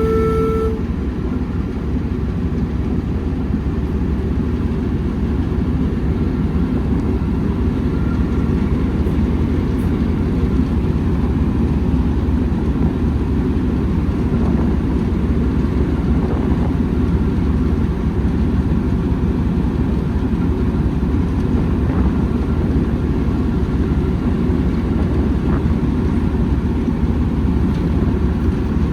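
Steady low rumble of a train running, loud throughout. A held signal note from the train cuts off within the first second.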